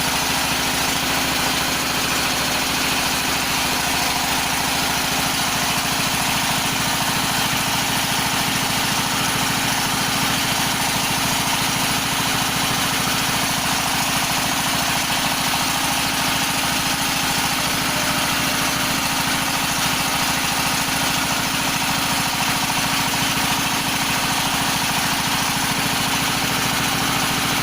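Floating fish-feed pellet machine running steadily at a constant speed.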